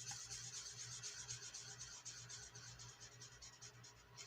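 Faint, rapid scratching of a pen coloring in on paper, many quick back-and-forth strokes.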